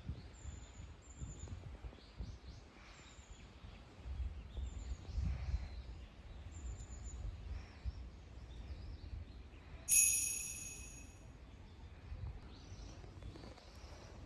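Outdoor ambience: small birds giving short, high chirps over a low rumble. About ten seconds in, a single bright ringing clink dies away over about a second.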